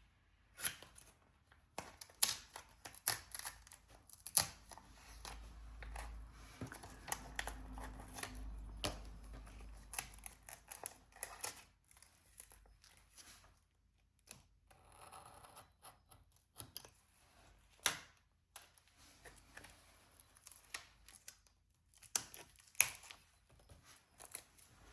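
Hand work at a diamond painting: scattered sharp clicks and taps of a drill pen and small plastic resin drills. A stretch of soft rustling handling noise comes a few seconds in.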